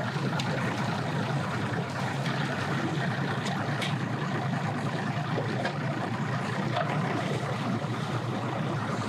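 Boat outboard motors running at low speed, a steady low hum under a noisy hiss.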